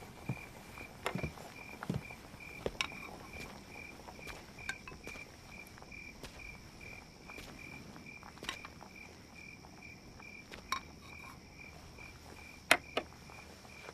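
Night insects: a cricket chirping in an even pulse about three times a second, joined about a second in by a second, higher, steady insect trill. Scattered soft clicks and knocks sound over it, with a sharper one near the end.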